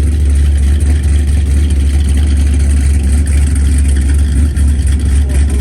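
Chevrolet Camaro engine idling: a loud, steady low rumble.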